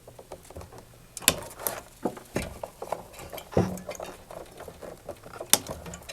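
Side cutters snipping plastic zip ties and the cut ties and wiring being pulled free: a series of sharp clicks and snaps with light plastic rattling in between, the sharpest snap about five and a half seconds in.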